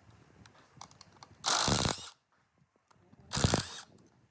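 Two short bursts of workshop tool noise, each about half a second long, with light clicks of metal parts and tools being handled between them.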